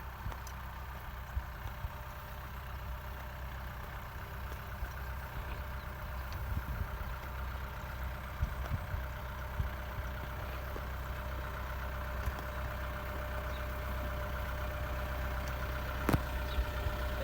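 Kubota M6240 tractor's diesel engine running steadily at work, growing gradually louder, with a sharp click about a second before the end.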